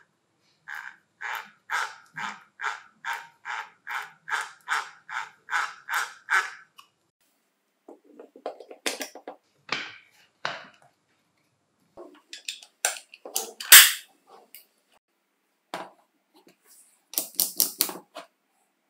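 Hand work on small tool parts: a regular run of about fourteen short strokes, some two and a half a second, then scattered clicks and knocks with one sharp click standing out.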